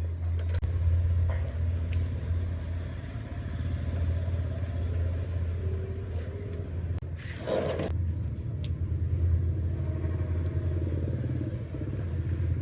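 Electric fan motor running with a steady low hum, with a short rushing noise about seven seconds in.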